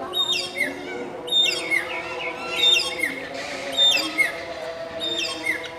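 Caged birds in a walk-in aviary chirping, with quick, high, falling chirps repeated about twice a second and several birds overlapping.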